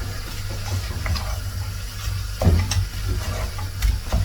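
A spoon stirring spiced chicken pieces in a pot, knocking and scraping against the pot several times.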